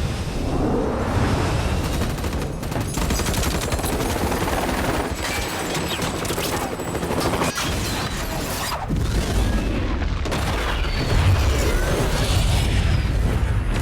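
Heavy sustained gunfire, with rapid volleys of shots and booms from explosions or heavy impacts, in a film action-scene sound mix.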